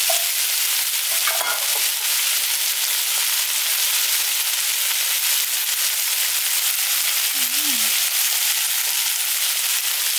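Chicken pieces, sliced onion and garlic sizzling steadily in hot oil in a nonstick frying pan.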